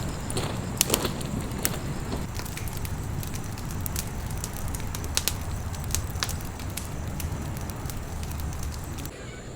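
Just-lit campfire of small twigs crackling, with irregular sharp pops over a steady low rumble.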